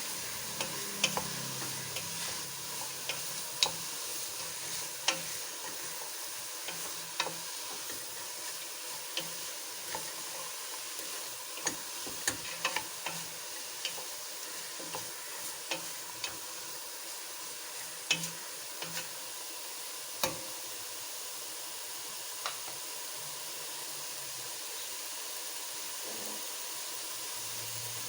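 Chopped vegetables (baby corn, carrots, French beans) with onions and tomatoes frying in a little olive oil in a pan, a steady sizzle, while a spoon stirs them, clicking and scraping against the pan at irregular moments.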